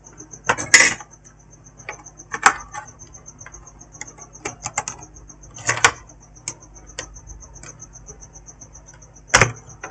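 Scattered clicks and taps of tools and small parts being handled on a repair bench, the sharpest about half a second in, near two and a half seconds, near six seconds and about nine and a half seconds in. Under them a cricket chirps steadily in rapid, high-pitched pulses.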